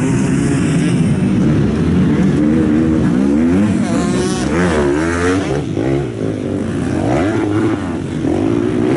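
Several motocross bikes racing, their engines revving up and down, with more than one engine heard at once at shifting pitches.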